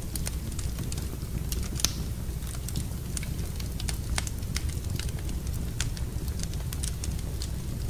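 Fire in a fireplace crackling, with irregular sharp pops over a low steady rumble. One louder pop comes about two seconds in.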